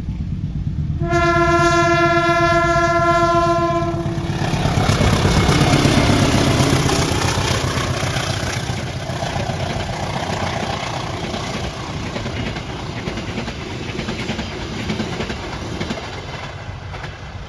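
A train horn sounds one long, steady blast about a second in, lasting about three seconds. A train then passes, loudest a few seconds later and slowly fading.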